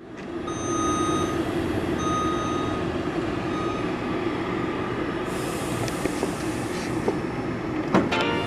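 Train running by with a steady rumble. A high beeping tone sounds two or three times in the first few seconds, each beep under a second long.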